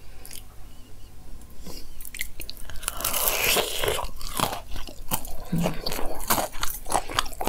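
Biting into a fried paneer pakora about three seconds in with a loud crunch of the crisp batter, followed by close-miked crunching and chewing.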